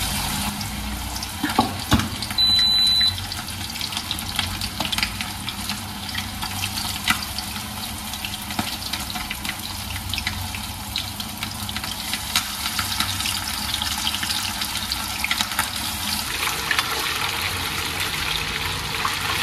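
Marinated chicken pieces sizzling in hot oil: a steady hiss with scattered crackles and pops from spattering oil. A short high beep sounds about two and a half seconds in.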